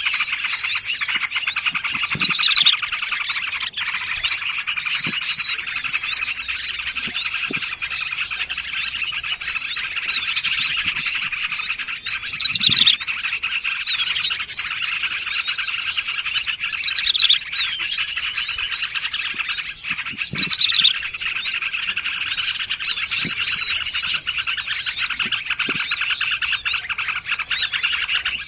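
Bird-trapping lure recording: a dense mix of small songbirds chirping and trilling over one another without a break, with a few short, faint, low calls underneath.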